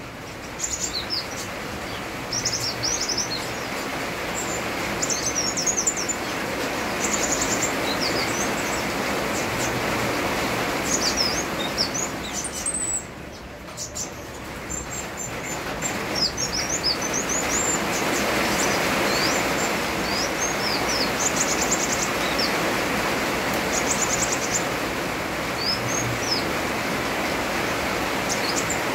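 A sunbird (kolibri wulung) singing: quick, high, sharp chirps and short trills coming in scattered bursts throughout. Under it runs a steady hiss of rain, which eases briefly about halfway through.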